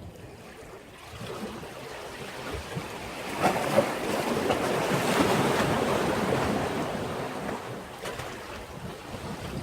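Sea wave washing against a breakwater: a rush of surf that builds from about a second in, peaks around the middle and then fades away, with a couple of sharp splashes near its peak.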